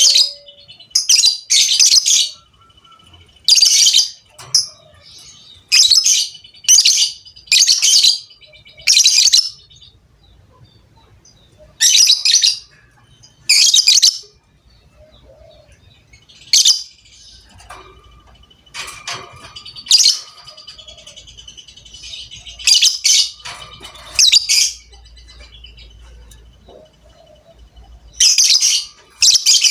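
Lovebird chirping in about twenty short, loud, high bursts, each under a second, coming in uneven groups with pauses between, over a faint steady high tone.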